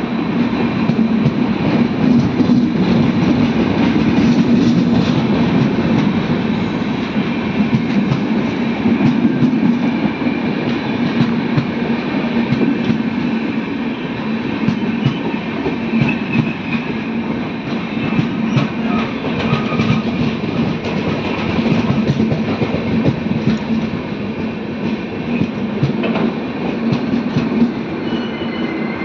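Indian Railways passenger coaches passing close by at speed: a steady loud rumble, with the wheels clattering over the rail joints in a stream of sharp clicks.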